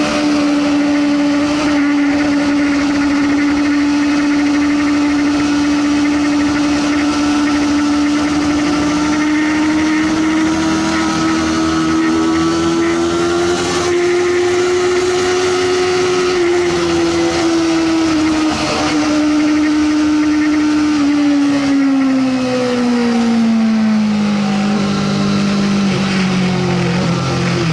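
Sportbike engine running at high, steady revs, its pitch creeping up slightly and then falling steadily over the last several seconds as the revs wind down.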